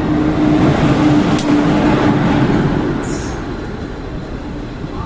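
Express passenger train running past, a steady rumble with a steady hum that stops about three seconds in, then fading.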